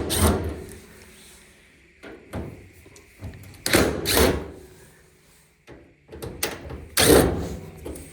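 Thuds and clunks of a dryer's sheet-metal cabinet parts being handled and unhooked, about five separate knocks, the loudest near the start and about seven seconds in.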